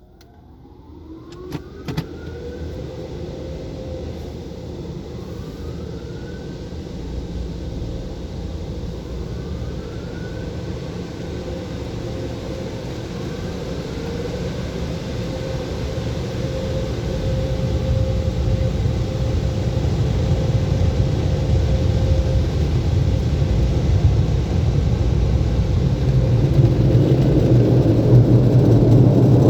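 Rollover car wash dryer blowers spinning up one after another with rising whines, then running steadily with a deep rumble. They grow steadily louder toward the end.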